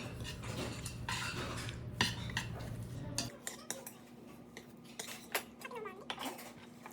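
Clinking and knocking of dishes and cutlery, a string of short sharp clicks.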